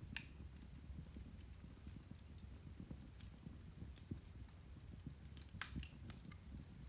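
Irish turf (peat) fire crackling faintly, with scattered small pops and two sharper snaps, one just after the start and one about five and a half seconds in, over a low steady rumble.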